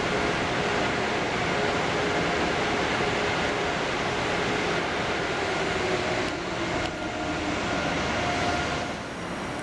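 Amtrak Acela Express train pulling slowly in toward the platform, a steady hiss and rumble of the moving train with a faint steady whine in it. There are two light clicks about six and seven seconds in, and the sound drops a little near the end.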